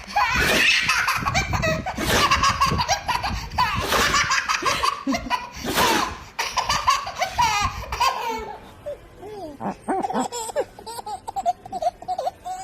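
A baby laughing hard in repeated belly laughs, which turn quieter and sparser after about eight seconds.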